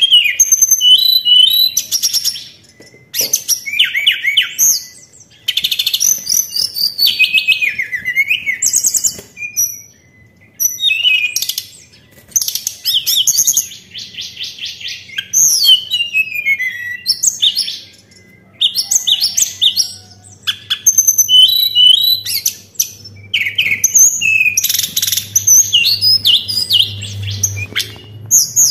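Tledekan songbird singing: rapid, varied high whistled phrases and trills in bursts of a second or two, with short pauses between them. A faint low hum runs under the second half.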